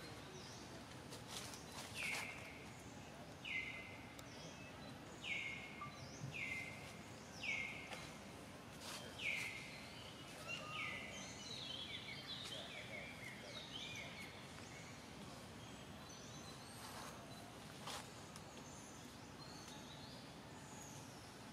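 A bird calling over and over: short notes that each drop in pitch, repeated every second or two through the first half, with a few faint clicks later on.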